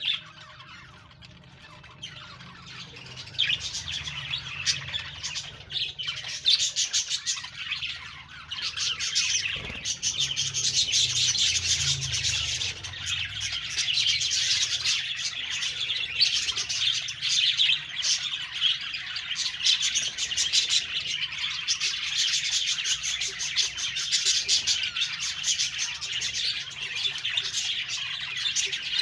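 Budgerigars chirping and chattering, a dense, continuous mix of high chirps that fills in over the first few seconds.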